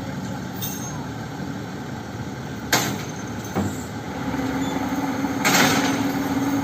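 Heavy diesel truck engine running steadily. There is a sharp clack a little before three seconds in and a lighter one shortly after. A steady hum joins about four seconds in, and a short hiss follows around five and a half seconds.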